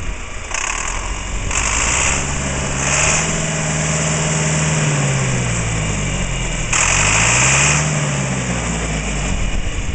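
John Deere 3020's four-cylinder diesel engine running, revved up and let back down twice, with short bursts of hiss over it.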